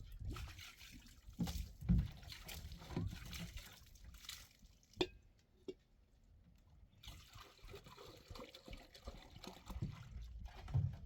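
Water trickling and splashing, with irregular handling thumps and a couple of sharp knocks about five seconds in.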